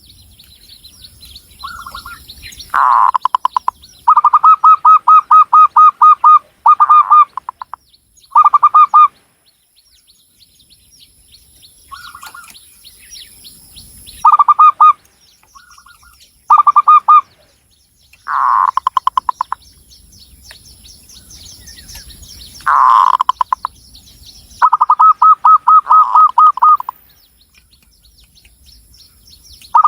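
Zebra dove (local Javanese perkutut) cooing: repeated phrases of rapid, evenly pulsed coos, each lasting about one to two seconds, with short pauses between them.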